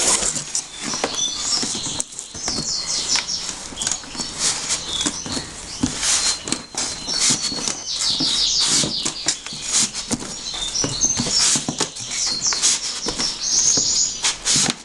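Plastic packaging crinkling and rustling in irregular bursts of crackle, with some quicker, scratchier stretches, as a small inkjet printer is unwrapped by hand.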